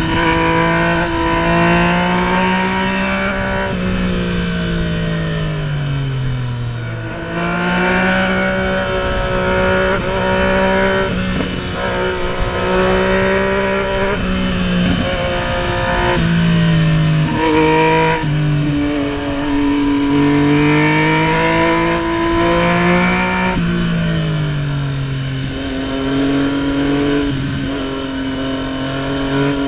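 Yamaha MT-09's three-cylinder engine heard from the rider's seat while riding. Its pitch holds, falls away as the throttle closes and jumps at gear changes, over steady wind rush.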